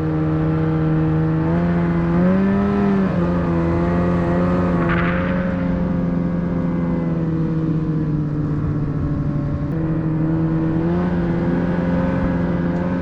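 Snowmobile engine running steadily under load, its pitch rising briefly about two seconds in and again about eleven seconds in. A short hiss comes about five seconds in.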